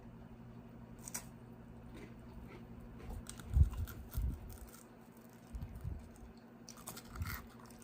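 Faint crunching and clicking as a crumbly cheese chocolate cookie is bitten into and chewed, with a couple of dull thumps about halfway through.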